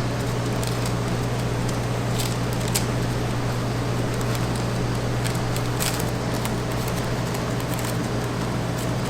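Steady low mechanical hum with an even background hiss, and a few faint light clicks over it.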